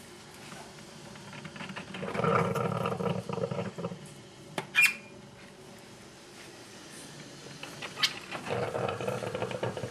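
Drip coffee maker gurgling and hissing as it brews, in two bursts of a second or two each, with a sharp click near the middle.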